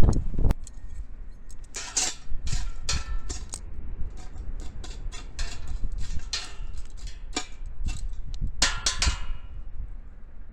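Wood fire in a pail-can fire pit crackling and popping, with irregular clusters of sharp cracks over a low hiss.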